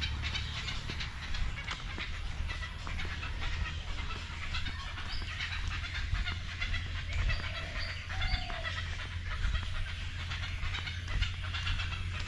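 A nesting colony of herons and egrets calling together: a dense chatter of many short, overlapping calls, with a few longer drawn-out calls in the middle. A steady low rumble runs underneath.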